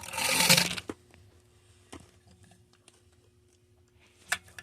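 Warheads candy packaging being handled and rummaged through: a loud crinkling rustle in about the first second, then a few faint clicks and one sharp click near the end.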